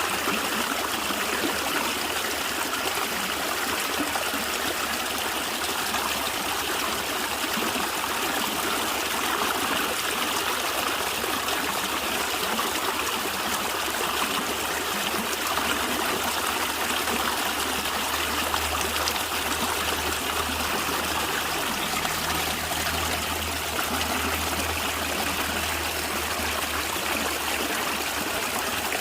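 Natural stream water running and gurgling in a steady, unbroken rush with trickling.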